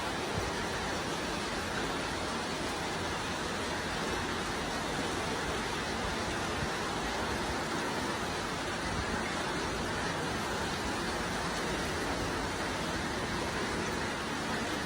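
Heavy rain falling steadily, an even rushing hiss with no letup.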